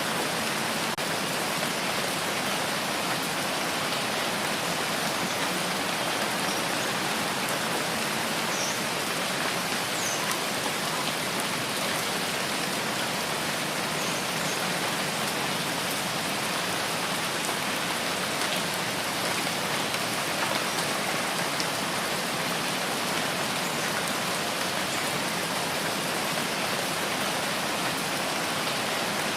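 Steady rain falling, an even hiss of drops with a few faint individual drip ticks.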